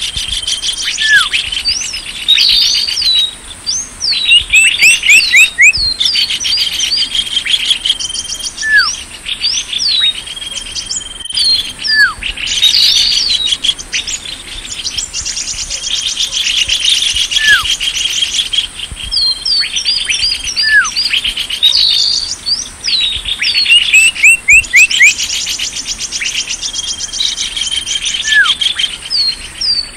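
Small-bird lure call recording: many small birds chirping and twittering, with repeated down-slurred whistled notes and fast rattling trills, over a steady high-pitched whine.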